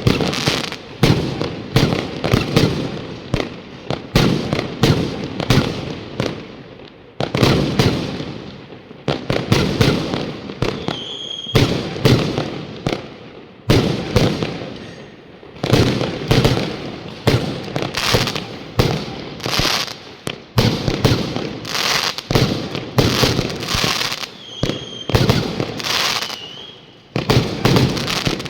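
Fireworks going off in rapid, continuous volleys: many sharp bangs a second. A few short high whistles cut through them.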